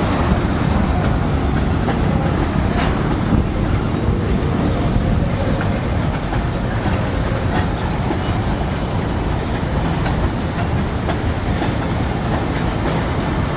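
CSX freight train's tank cars rolling steadily across an elevated rail bridge: a continuous rumble of wheels on the rails, with a few faint high wheel squeals around the middle.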